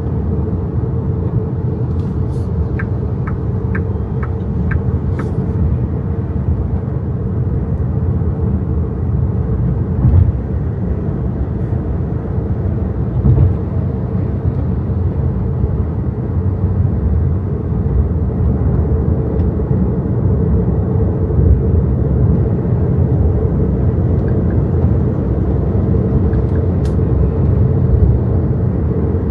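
Steady low road and tyre rumble inside the cabin of a moving XPENG G6 electric SUV, with no engine note. A short run of about six light, evenly spaced ticks sounds a few seconds in.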